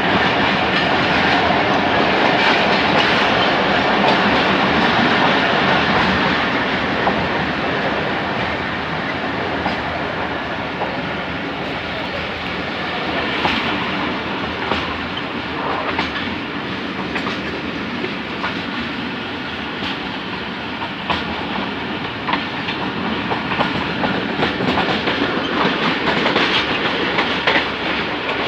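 Passenger train running slowly, its wheels clattering over rail joints with steady rolling noise.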